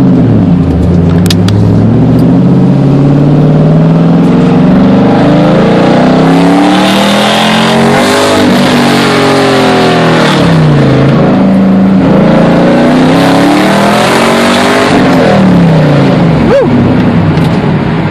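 1998 Camaro Z28's LS1 V8 accelerating hard through the gears. The engine note climbs steadily, then drops sharply at each of several gear changes.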